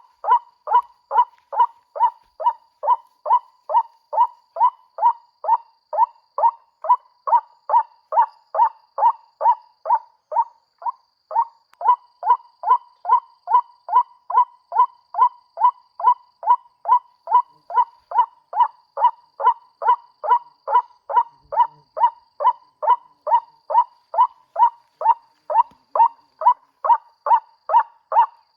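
White-breasted waterhen call repeated at a steady, even beat of about two calls a second, with a short break about eleven seconds in, then cutting off abruptly near the end. This is the call that the trapper has switched on to lure ruak-ruak to the snares.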